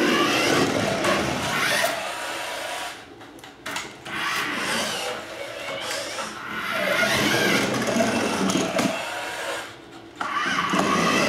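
Toy remote-control cars' small electric motors whirring as they are driven in spurts, with short pauses about three seconds and ten seconds in.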